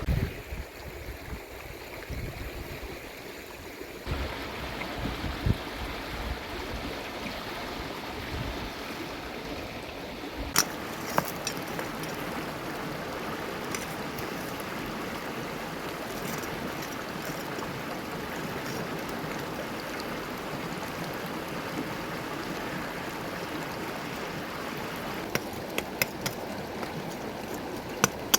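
Steady rush of a flowing river, with a few sharp clicks now and then.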